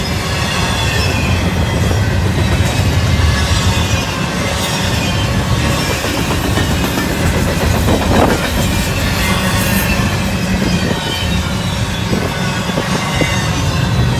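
Double-stack intermodal container train's well cars rolling past close by: a steady loud rolling noise of steel wheels on rail, with a faint high wheel squeal running through it and a short knock about eight seconds in.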